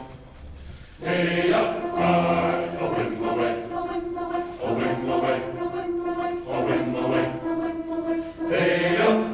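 Community choir singing in harmony. The voices come in about a second in and go on in phrases with short breaths between them.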